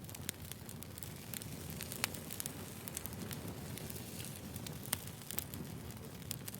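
Firewood burning with irregular crackles and pops, two sharper snaps about two and five seconds in, over a steady low hiss of the flames.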